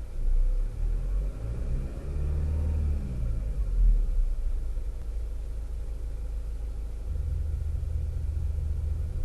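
Imitation engine rumble from a THOR active sound exhaust system on a Mazda CX-5, heard inside the cabin. The pitch rises and falls like a rev about two seconds in, then settles to a steady low drone that gets louder about seven seconds in.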